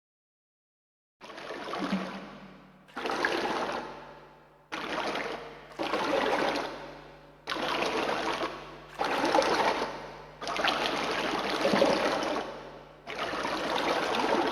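Blood-spurting sound effect: repeated gushing squirts of liquid, about eight of them, roughly one every one and a half seconds. Each squirt starts sharply and then fades. They begin about a second in, after silence.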